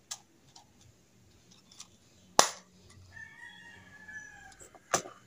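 Sharp clicks and knocks of a brush cutter's recoil starter parts being handled, the loudest a little before halfway. A rooster crows in the background for about a second and a half, starting about three seconds in.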